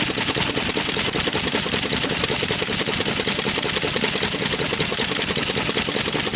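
Old stationary engine (hatsudoki) running steadily with a rapid, even clatter of beats.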